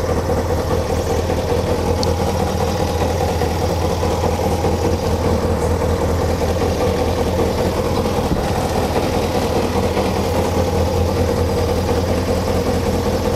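Kawasaki ZZR600's inline-four engine idling steadily through a Devil aftermarket slip-on silencer, the idle stable and even.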